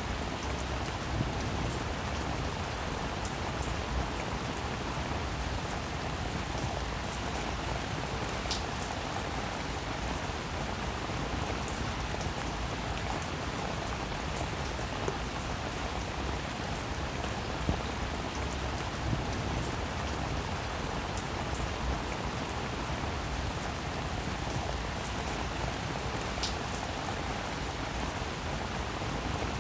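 Steady rain falling and pattering on a surface, with now and then a single louder drop.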